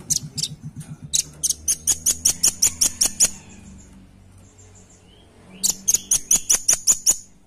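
Velvet-fronted nuthatch (red-billed rambatan) calling two fast runs of sharp, high chipping notes, about six a second, with a pause of about two seconds between them.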